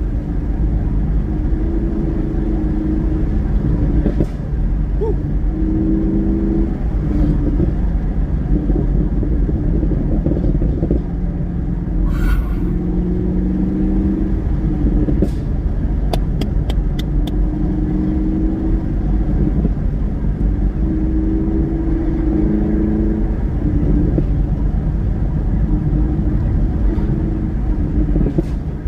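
Car engine and exhaust heard from inside a manual car on the move, the engine note climbing and then dropping back in steps as it is driven through the gears over a deep rumble. A few short sharp exhaust crackles cut through, with a quick string of them a little past halfway.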